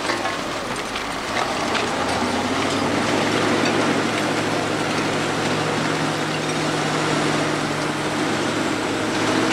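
Engine of a heavy vehicle or machine running steadily, its pitch rising slightly about two seconds in.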